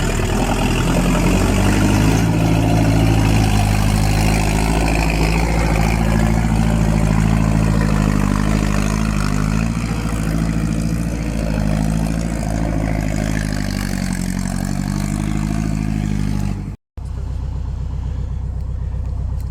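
A vehicle's engine running, its pitch rising and falling a little as it works. It cuts out for a split second near the end, then carries on at a steadier pitch.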